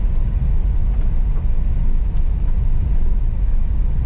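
A car driving, with a steady low rumble of engine and tyres on the road and a few faint light clicks.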